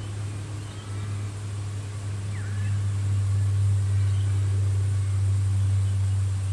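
Australian bush ambience dominated by a steady low hum, with faint scattered bird chirps and a thin, steady high-pitched insect drone.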